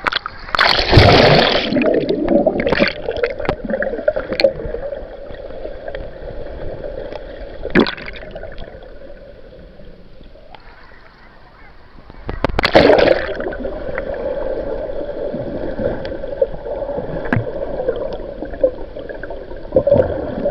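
Sea water sloshing and gurgling, with two loud splashing rushes: one about a second in and another about two-thirds of the way through.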